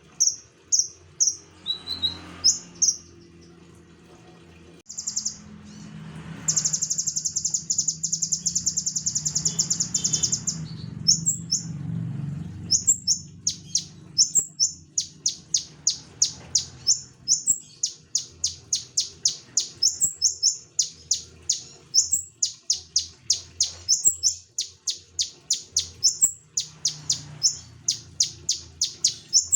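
A konin songbird in full, persistent song: rapid high chipping notes run into a long, fast trill, then a string of quick chattering phrases, each opened by a short rising note.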